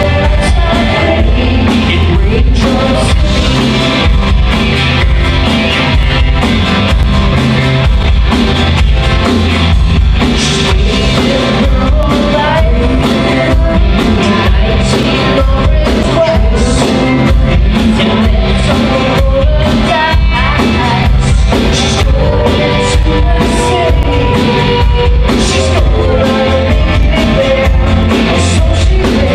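A rock band playing live with drum kit, guitar and a singer, loud and steady.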